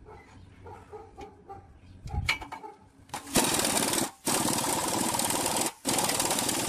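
A power tool on metal, running hard in three bursts with two short stops, after a few faint knocks and clicks.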